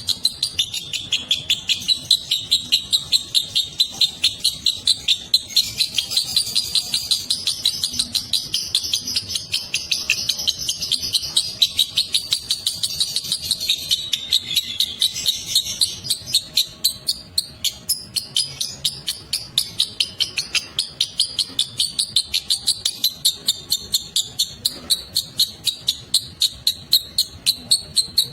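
Lovebird singing its long 'ngekek' chatter: a continuous, high-pitched run of rapid shrill chirps, louder pulses coming about three times a second, without a break.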